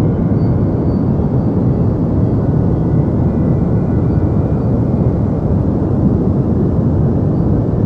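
Deep white noise for sleep: a steady, unchanging noise with most of its weight low down and little treble.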